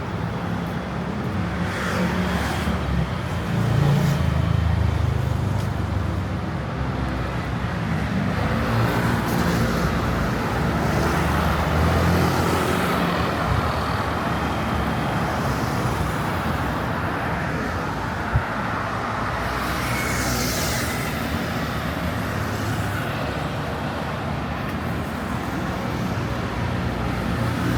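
City street traffic: engines running steadily, with vehicles passing close a few times, the loudest about two-thirds of the way through. A single sharp click sounds a little past the middle.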